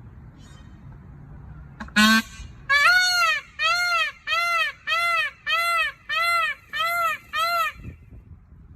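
An animal calling: one short call, then a steady series of eight short calls, each rising and then falling in pitch.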